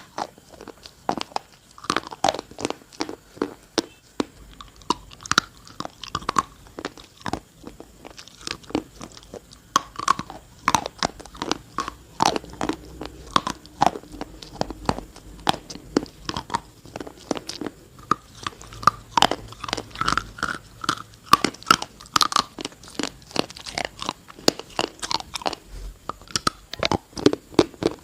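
Close-miked biting and chewing of hard, dry, crunchy pieces, with sharp crackling crunches coming several times a second without a break.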